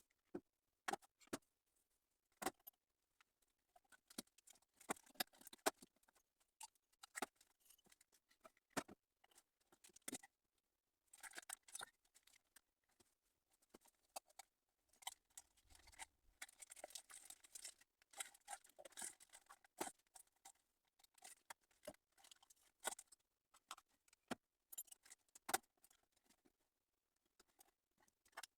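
Hand tools and metal engine parts clicking and tapping as they are handled during engine assembly, in scattered single sharp clicks, with a denser stretch of scraping and rustling about halfway through.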